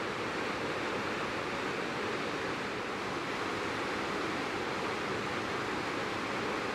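Steady rushing of river water tumbling over a series of small rock cascades, an even, unbroken wash of water sound.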